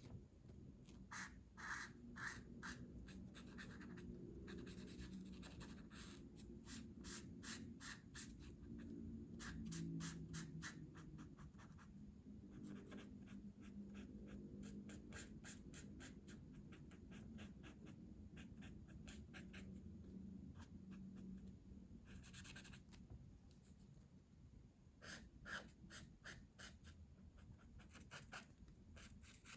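Colouring tool scratching on paper in faint runs of quick back-and-forth strokes, with short pauses between the runs.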